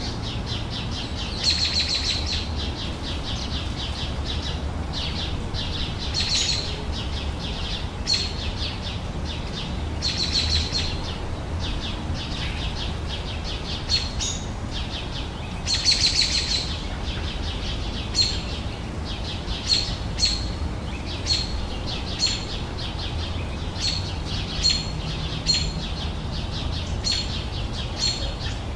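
Birds singing: trilled phrases and short, high chirps. In the second half the chirps come about once a second, over a steady low background rumble.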